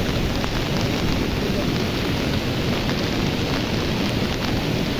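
Steady, dense rush of a river in flood: fast, heavy floodwater making a continuous low rumble.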